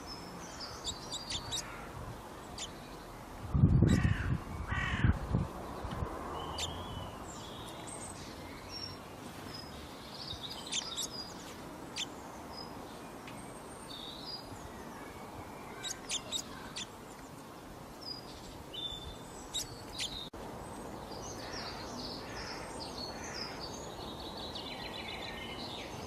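Small garden birds chirping and calling, short high notes scattered throughout. A few louder, lower calls come about four to five seconds in, and a burst of rapid chatter near the end.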